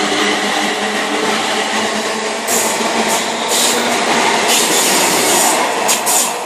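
A train running past on the rails: a loud steady rush of wheels and air, with a low hum in the first couple of seconds and bursts of high hiss from about two and a half seconds in.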